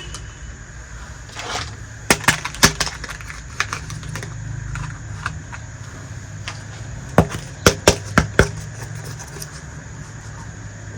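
Small hard miniature toy kitchen pieces being handled, clicking and tapping against each other: a few sharp clicks about two seconds in and a quick cluster around seven to eight seconds in, over a steady low hum.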